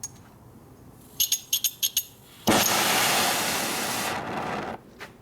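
A small gas torch: a quick run of about five clicks from its igniter, then a loud hiss of gas and flame for about two seconds that cuts off suddenly.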